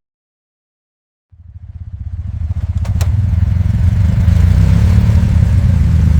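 Off-road vehicle engine running, cutting in abruptly after a second of silence and building to a steady loud rumble, with a couple of sharp clicks about three seconds in.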